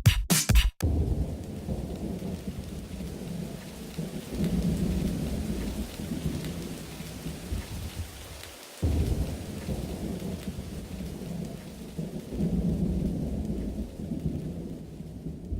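Steady rain with deep rolling thunder rumbles that swell twice. The sound cuts out for a moment about halfway and starts again. The last beats of a drum track end in the first second.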